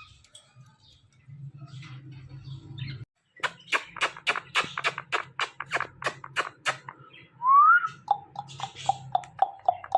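Pet parrot chattering between its talking phrases: a fast run of sharp clicking chirps, then one loud rising whistle, then a string of short repeated calls at about five a second.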